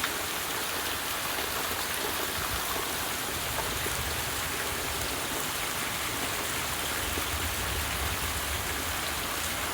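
Heavy downpour of rain, a steady hiss of falling and running water. In the second half a low rumble of thunder rises underneath it.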